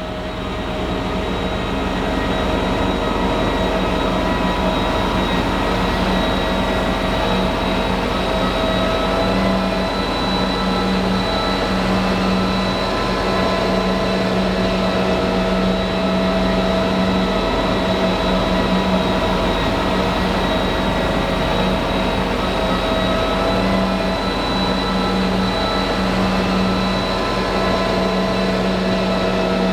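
New Holland FR500 self-propelled forage harvester running steadily under load, a constant machine whine layered over engine rumble, fading in at the start.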